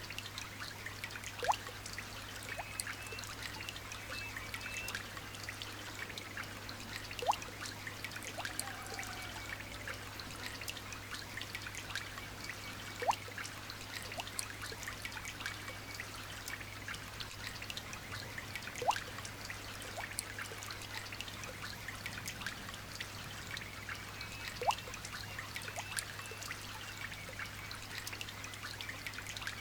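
Light rain pattering with a steady trickle of water. A louder single drip falls in pitch about every six seconds, five times in all, over a low steady hum.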